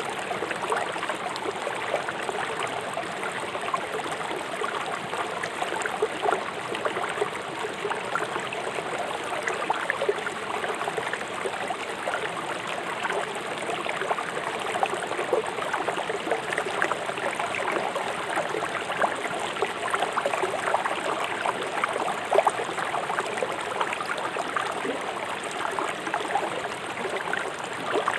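A fast-flowing river rushing and splashing over rocks, a steady watery rush with constant small splashes and gurgles.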